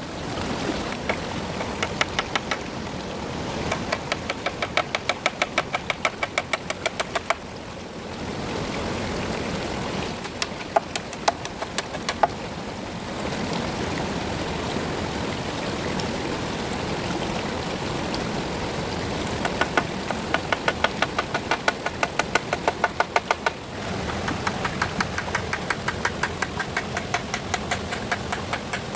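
Runs of rapid, evenly spaced knocks, about four a second, lasting several seconds at a time, with a steady rushing noise underneath and between the runs.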